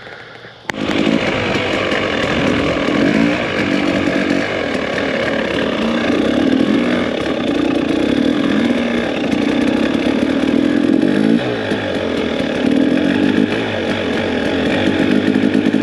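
Two-stroke dirt bike engine, loud and close, coming in suddenly under a second in and then running with its revs rising and falling over and over as the bike is ridden.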